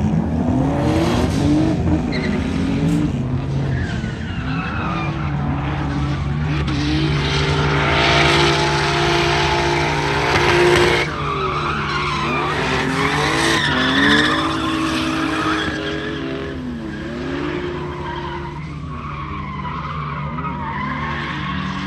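Drift car engine revving hard, its pitch repeatedly rising and falling, with tyres skidding and squealing as the car slides. The tyre noise is loudest about halfway through.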